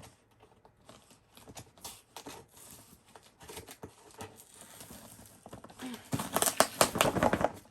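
Packing tape and cardboard being picked at and pulled by hand on a shipping box: faint scratching and rustling, then a loud spell of ripping and tearing near the end as the tape gives way.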